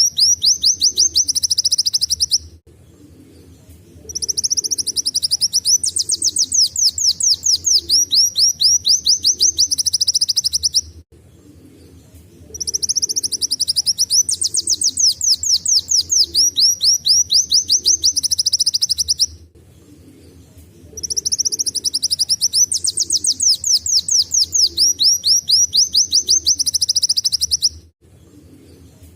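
Kolibri wulung sunbird singing canary-style song: long bouts of fast, repeated high sweeping notes, about five a second, each bout lasting six or seven seconds with short pauses between.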